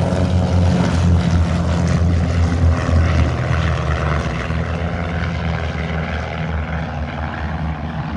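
Aircraft engine and propeller running loud and close, a steady low drone that eases off gradually through the second half.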